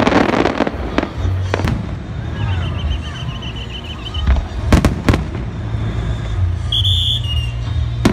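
Fireworks display: aerial shells bursting with sharp booms, several close together near the start and another pair about five seconds in, over a steady low rumble.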